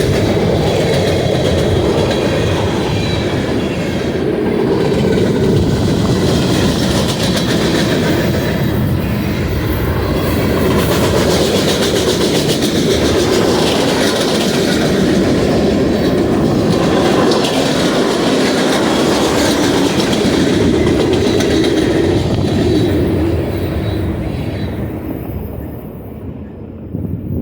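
Freight cars of a mixed manifest train rolling past on the mainline: a steady heavy rumble with wheels clicking over the rail joints, dying away near the end.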